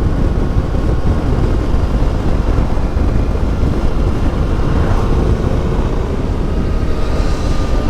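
Yamaha Ténéré 700's CP2 parallel-twin engine running steadily through an Akrapovic exhaust while the bike is ridden, with a heavy low rumble and some wind on the microphone.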